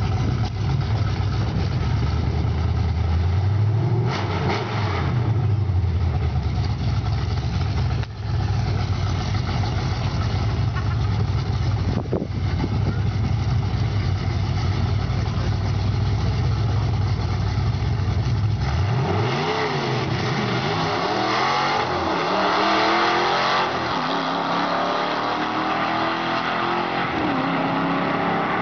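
A 1969 Mustang and a Fox-body Mustang idling at the drag strip start line, with a brief rev about four seconds in. About two thirds of the way through they launch and accelerate hard away down the track, the engine pitch climbing and dropping again and again with the gear changes.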